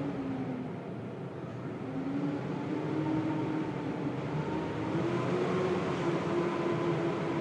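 Blizzard wind blowing steadily with a low, wavering howl that swells louder after a couple of seconds.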